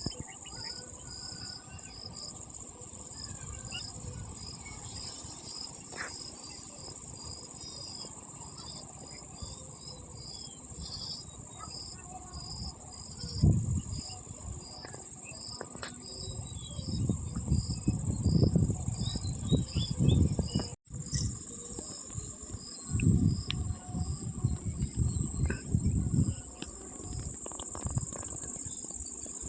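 Evening insect chorus: a steady high-pitched drone with crickets chirping in an even rhythm of about two chirps a second. In the second half, bursts of low rumble, wind buffeting the microphone, are the loudest sound, and the audio drops out for a split second about two-thirds of the way through.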